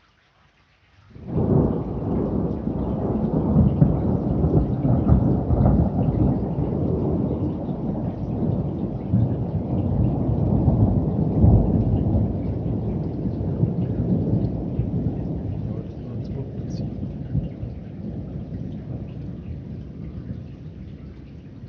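Thunder from a multiple-stroke positive upward lightning flash. It starts suddenly and loud about a second in, then carries on as a long, steady rolling rumble that slowly fades over some twenty seconds.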